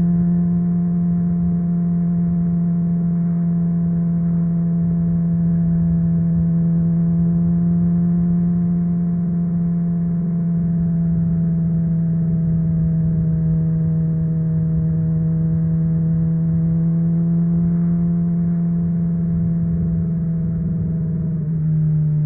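Honda CBR600RR inline-four engine through a MIVV aftermarket exhaust, running at a steady cruise with a constant, even note. The pitch steps down slightly near the end as the throttle eases.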